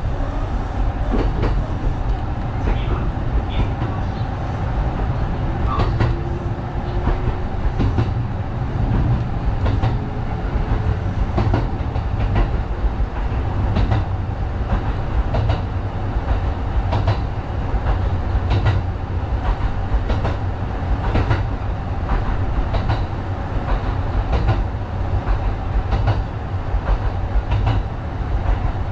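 Kintetsu 1010-series electric train running along the track, heard from inside the front of the car: a steady low rumble with irregular clicks of the wheels over rail joints.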